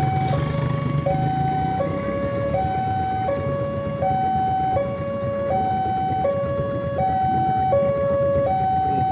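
Railway level-crossing warning alarm sounding a two-tone electronic hi-lo signal, switching pitch about every three-quarters of a second, the signal that a train is approaching and the crossing is closing. A steady low rumble runs underneath.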